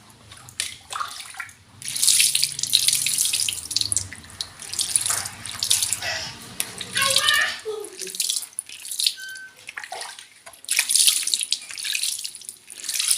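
Water running and splashing in surges with short pauses between, rinsing dirt off washing machine parts.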